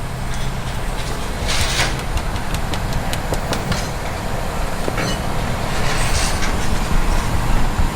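Twin-turbo 3.7-litre V6 Mustang engine running with a steady low rumble, with scattered clicks and a brief hiss about a second and a half in.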